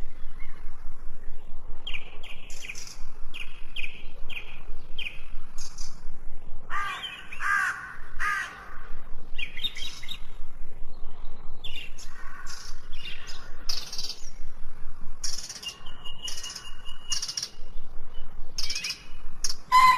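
Wild birds chirping and calling in quick succession, several different calls overlapping, with a few harsher, lower calls around the middle.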